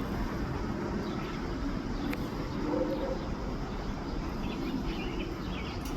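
Steady low outdoor rumble, with a few faint bird chirps near the end.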